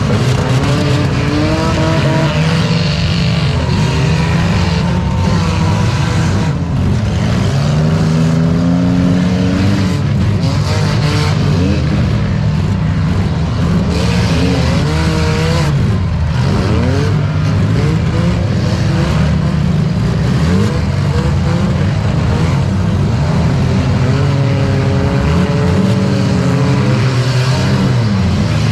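Demolition derby cars' engines running and revving up and down, several at once, with a few sharp bangs of cars colliding.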